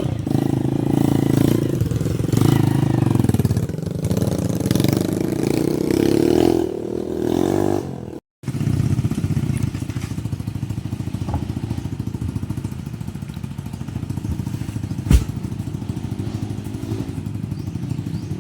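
Motorcycle engine running and changing pitch. After a cut about eight seconds in, it gives way to a steadier, quieter engine drone, with one sharp knock a few seconds before the end.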